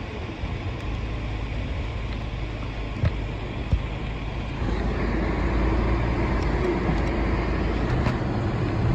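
Steady road noise of a car driving on a snowy road, heard from inside the cabin, with two light knocks about three seconds in. It gets a little louder from about halfway through.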